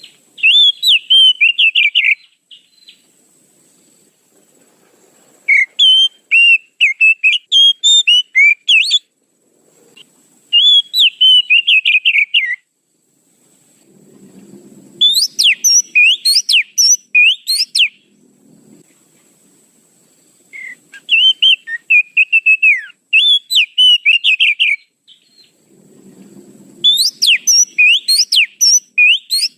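Oriental magpie-robin (kacer) calling in fast bursts of sharp, whistled chirps, played as a bird-lure call. Six bursts of two to four seconds each come with short pauses between them.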